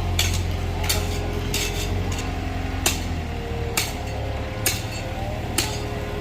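TCM bulldozer working: its diesel engine runs with a steady low hum while sharp metallic clanks come about once a second, the kind a crawler's steel tracks make as it moves.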